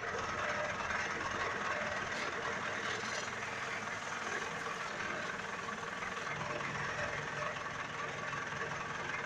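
Engine idling steadily through a 'guk guk' style exhaust (knalpot).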